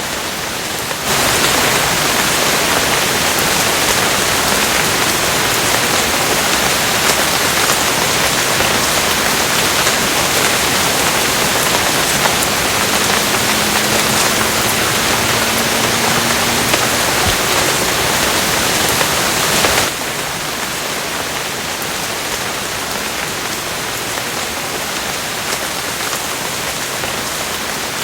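Steady rain falling in an even hiss, which turns abruptly louder and heavier about a second in and drops back to a lighter fall just as suddenly about twenty seconds later.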